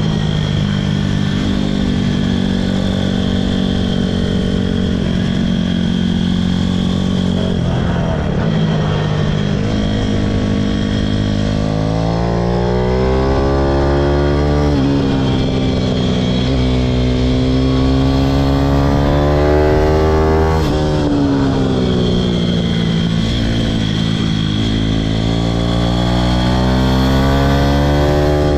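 Pitom pit bike's single-cylinder engine being ridden hard. The engine pitch climbs under throttle and drops back sharply several times, twice in the middle and again rising near the end.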